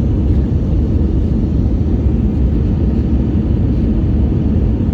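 Steady low rumble inside the cabin of an Airbus A320 with IAE V2500 engines on final approach: engine and airflow noise.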